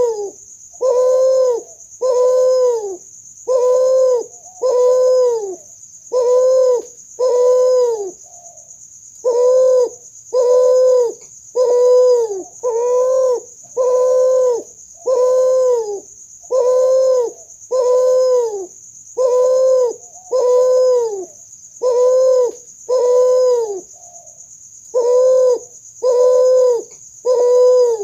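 A kuter, a spotted dove × ringneck dove hybrid, cooing over and over, about one low coo a second, each note swelling and dropping slightly at its end, with two short pauses. A steady high-pitched hiss runs underneath.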